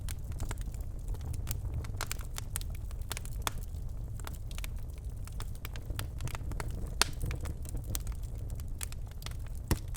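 Birchwood fire crackling in a fireplace: a steady low rumble of flames with frequent sharp pops and snaps, the loudest about seven seconds in and again near the end.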